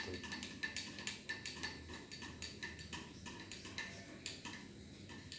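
Metal spoon clinking against the inside of a cup while stirring coffee: repeated light ringing clinks, about three to four a second, getting weaker and stopping near the end.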